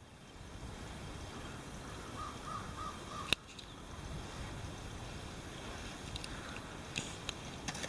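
A bird gives four short calls in quick succession a little after two seconds in, over a steady low rumble of outdoor noise. A sharp click comes just after the calls, and a few lighter clicks near the end.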